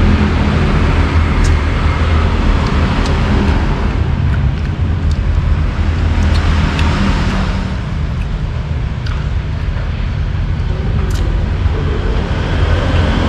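Steady road traffic noise: a low engine rumble with vehicles passing, swelling once about halfway through, with a few light clicks over it.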